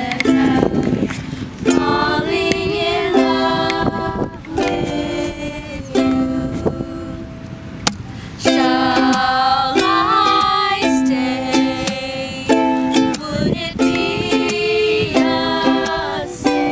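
Ukulele being strummed, playing a song's chords in a steady rhythm.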